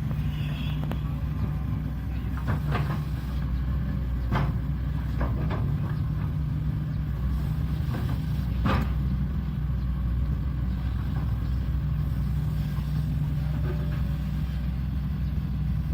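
Shantui excavator's diesel engine running steadily under load, with several short sharp knocks in the middle of the stretch.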